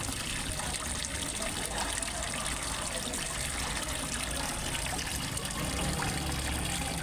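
Water of a small fish-pond waterfall trickling and splashing steadily.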